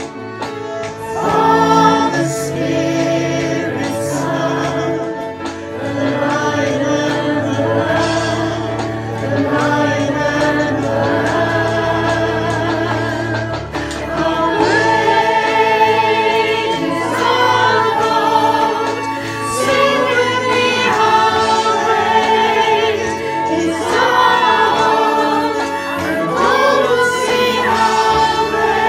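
Worship song: choir singing, the voices wavering in vibrato, over sustained low accompaniment notes that shift every few seconds.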